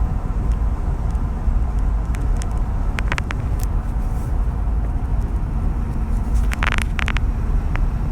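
Steady low road rumble inside the cab of a 2016 Ford F-250 crew cab 4x4 travelling at about 70 mph on concrete highway pavement, with a few brief light clicks around three seconds in and near the end.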